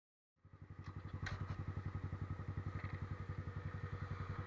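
Suzuki Gixxer's single-cylinder engine idling steadily, a low even putter of about nine beats a second. It starts about half a second in, with a few light clicks soon after.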